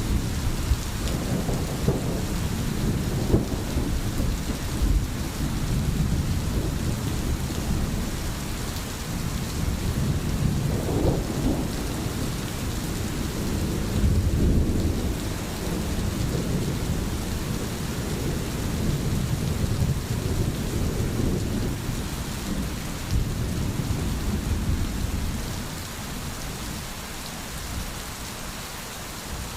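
Steady rain with low rolling thunder, the thunder easing a little near the end.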